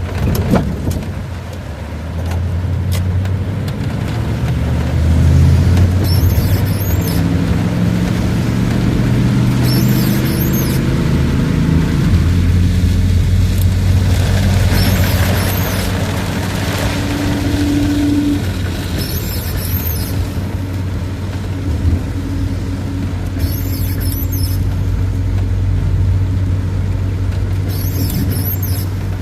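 1992 Dodge B250 van's engine running under way, its pitch climbing in steps as the van gathers speed and shifts up. A short high swish comes about every four seconds.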